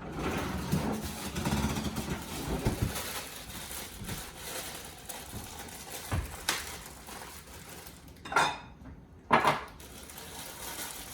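Kitchen utensils and dishes clattering and scraping, with a few sharper knocks in the second half.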